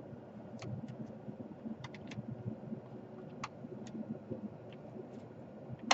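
Scattered light clicks and taps of a laptop's plastic casing and parts being handled during disassembly, about ten irregular clicks.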